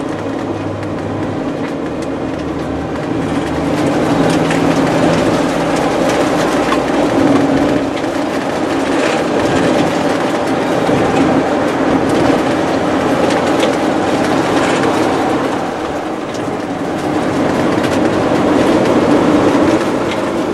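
Steady rumble of a moving vehicle, with road noise that swells and eases as it goes.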